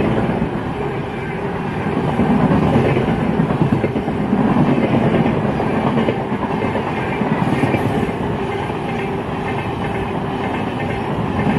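Express train's passenger coaches passing close by at speed: a loud, steady rumble of steel wheels on rail with rhythmic clickety-clack, swelling and dipping every second or so as the coaches go by.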